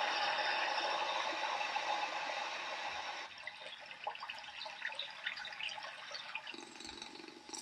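Recorded ambient water sounds from a white-noise app. A steady rush of running water drops away about three seconds in to a quieter trickle with scattered drips. A low hum joins near the end.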